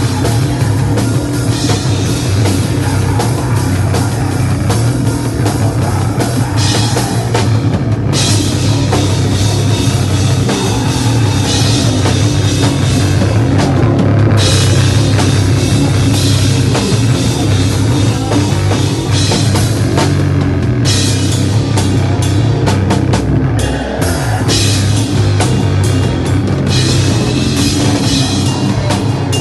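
Hardcore band playing live in a loud, raw mix, with the drum kit and cymbals driving it.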